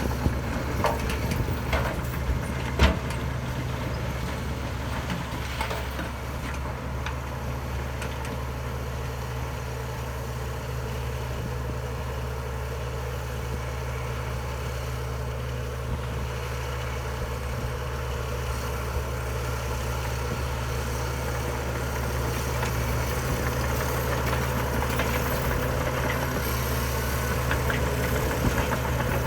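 Heavy diesel engine of earthmoving machinery running steadily at low revs, with a few sharp metallic knocks in the first three seconds, the loudest about three seconds in.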